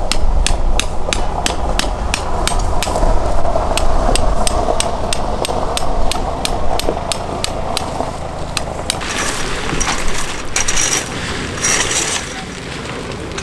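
Rapid, evenly spaced hammer strikes, about three a second, stopping about eight seconds in, then a few seconds of rustling noise.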